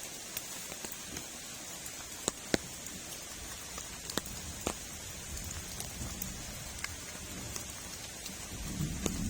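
Heavy rain falling steadily, with scattered sharp drop ticks and two louder clicks between two and three seconds in; a low rumble builds near the end.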